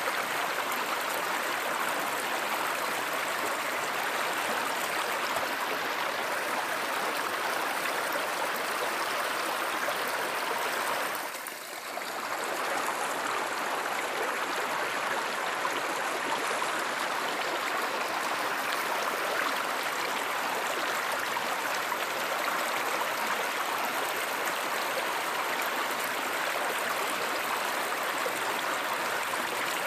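Running water of a stream or river, rushing as an even, steady noise. It dips briefly for about a second around eleven seconds in.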